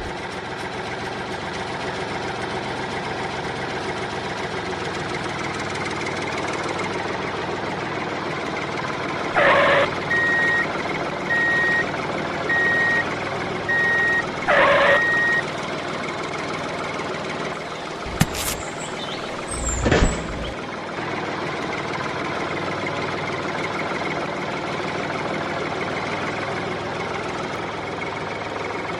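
Truck engine idling steadily. About a third of the way in, a reversing alarm beeps about once a second for roughly five seconds, opening and closing with a short hiss. About two-thirds of the way in come two sharp knocks and a low thump.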